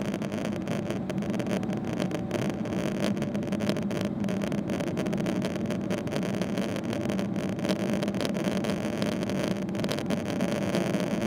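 Steady cabin noise inside a Boeing 777-300ER on the ground: the GE90 engines' low hum under a rushing air sound, with small knocks and rattles throughout.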